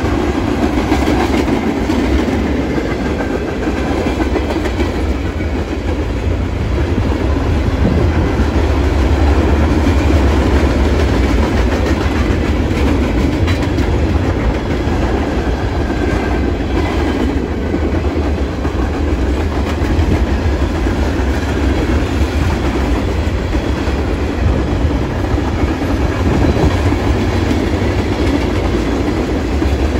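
Freight cars of a long manifest train rolling past at speed: tank cars, covered hoppers and boxcars making a steady, loud noise of steel wheels on rail.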